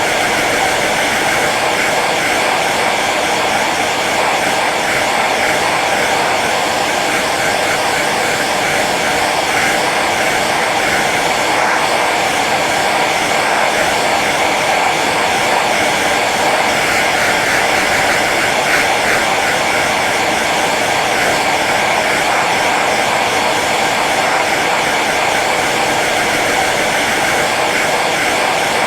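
Hair dryer running steadily on its low setting: an even, unchanging rush of blown air and motor whir.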